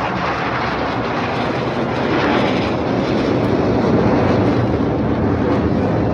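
Military aircraft flying past: a loud, steady rushing engine noise that swells a little toward the middle.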